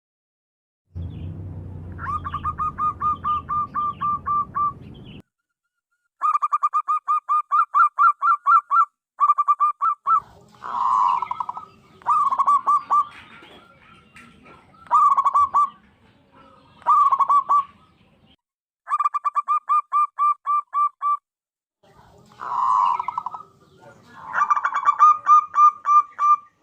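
Zebra dove calling: bouts of rapid staccato coos, about five notes a second, each bout lasting a few seconds, with a few fuller single coos between them. A low hum runs under the first bout.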